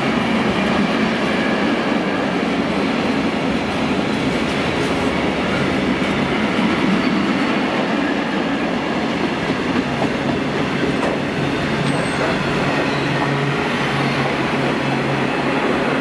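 A freight train's covered steel wagons rolling past on the rails: a steady heavy rumble of wheels and bogies with some clickety-clack over the rail joints, easing slightly near the end as the last wagon goes by.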